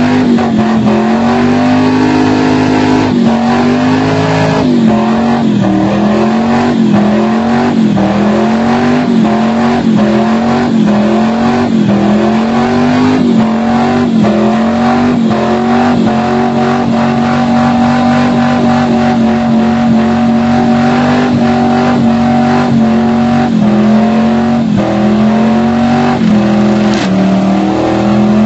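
Muffled Holden 253 V8 held at high revs during a burnout, its pitch dipping and recovering about once a second for the first half, then running steadier, with two short dips near the end.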